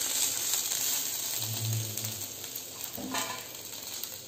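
Ground coconut-and-peanut masala paste sizzling in hot coconut oil while being stirred with a wooden spatula, the sizzle slowly fading. A brief low hum comes around the middle, and a short knock about three seconds in.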